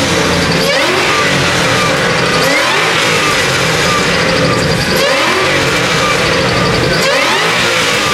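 Car engine being revved repeatedly, the pitch climbing and falling back about every two and a half seconds, loud and close.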